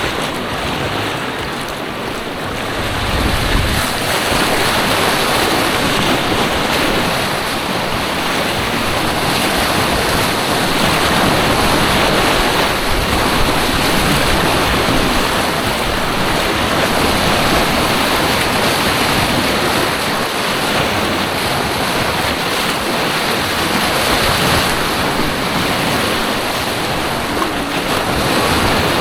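Rushing white water of an artificial white water course, a steady loud churning, heard close up from a kayak, with some wind buffeting the microphone.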